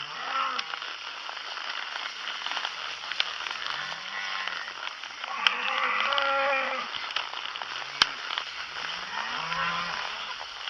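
Cattle mooing repeatedly, several low calls one after another, with one louder, higher bawl about six seconds in. A single sharp click sounds about eight seconds in.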